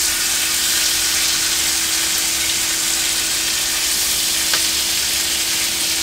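Pork loin slices and komatsuna stems sizzling in sesame oil in a frying pan: a steady high hiss of frying, with chopsticks turning the food and one sharp click about four and a half seconds in.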